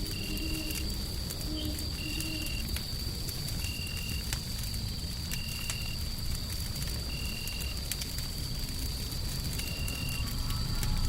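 Fire crackling over a steady low rumble and a constant high hiss of white noise. A short, high-pitched tone repeats about every second and a half throughout.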